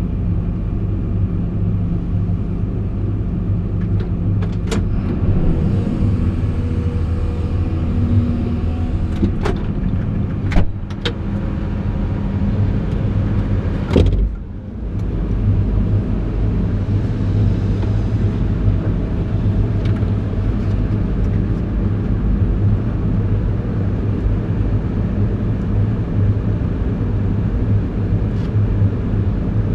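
Caterpillar 349E hydraulic excavator's diesel engine running steadily, with a few sharp knocks and clanks, the loudest about halfway through.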